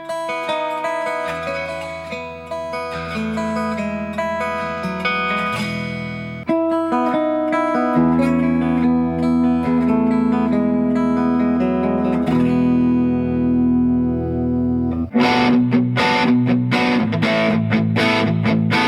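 Epiphone Les Paul Ultra electric guitar being played through an amp, after a setup, with sustained, ringing notes and chords. About fifteen seconds in it changes to quick strummed chords with a brighter, grittier tone.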